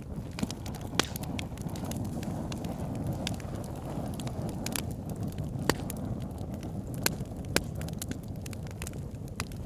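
Wood fire burning in a fireplace: a steady low rush of flame with frequent sharp crackles and pops, a few louder snaps among them.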